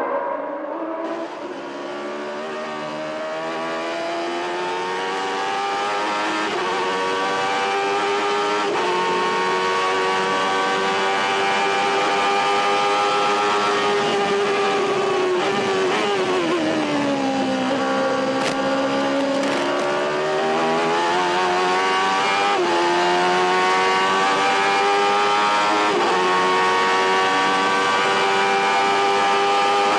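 A 1991 Formula One car's engine at high revs, pulling up through the gears with short breaks in pitch at each upshift. About halfway the pitch falls steeply as the car brakes and changes down, then climbs again through the gears.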